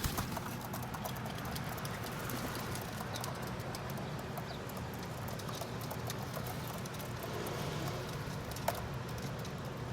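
Pigeons pecking at sunflower seeds, a steady scatter of small taps and clicks, with one sharper click near the end, over a low steady hum.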